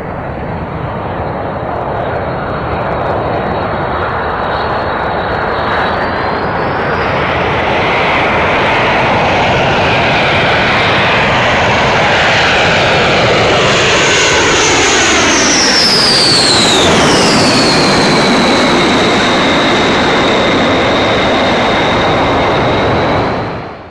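B-1B Lancer bomber's jet engines passing by: a steady roar that builds up, then about two-thirds of the way through a high whine drops steeply in pitch as the aircraft goes past and settles into a steady tone. The sound cuts off abruptly at the end.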